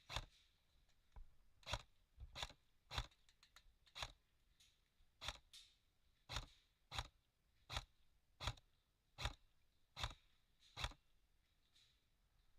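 Airsoft gun fired in single shots: about fifteen sharp snaps, irregular at first, then a steady shot roughly every 0.7 seconds until they stop near the end.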